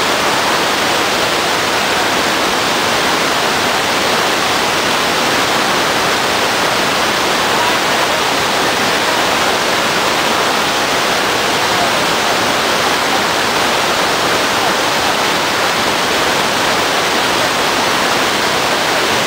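Waterfall: water pouring and rushing steadily.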